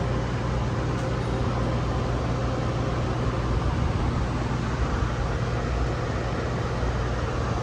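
Steady mechanical background hum: a constant low drone with an even wash of noise over it, unchanging throughout.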